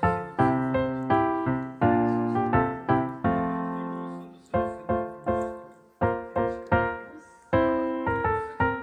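Background piano music: a gentle melody of struck notes, each fading after it sounds.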